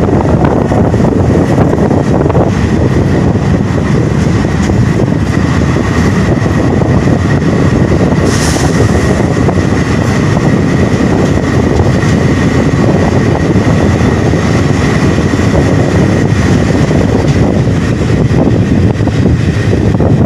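Passenger train running through a tunnel, heard from an open coach door: a loud, steady rumble of wheels on rail with wind buffeting the microphone. A thin, steady high whine runs over the rumble, and there is a brief hiss about eight seconds in.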